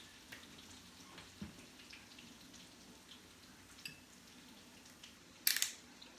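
Mushrooms and garlic sizzling quietly in a skillet, with a few faint clicks and one short, louder noise about five and a half seconds in.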